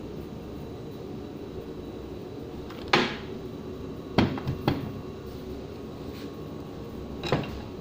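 Four sharp metallic knocks and clunks as parts of the pump's electric motor are handled and knocked during disassembly, the first about three seconds in and two close together about a second later. A steady low hum runs underneath.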